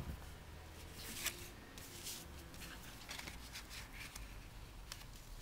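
Faint rustling and light ticks of ribbon and cardstock being handled while a ribbon knot is tied onto a card, with one slightly louder click about a second in.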